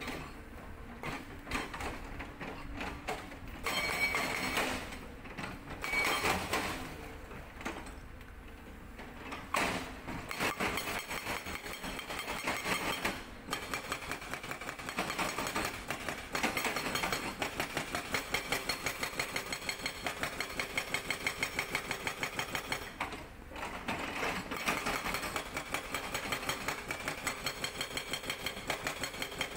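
Sangdo SD220 hydraulic breaker on an excavator hammering rock: irregular bursts of blows for the first ten seconds or so, then a long steady run of rapid, evenly spaced blows.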